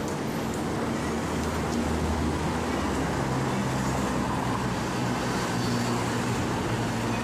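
City road traffic: a steady wash of vehicle noise with a low engine hum running underneath.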